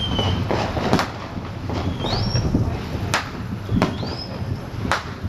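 Fireworks going off: about four sharp bangs spread through, and two short rising whistles near the middle, over a steady low rumble.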